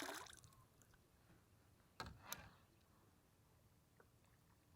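Near silence, broken by two faint clicks about two seconds in and a tiny tick near the end.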